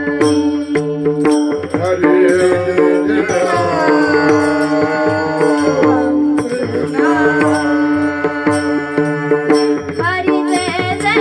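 Indian devotional singing: a strong voice holding long, wavering, sliding notes over a steady drone and a drum rhythm.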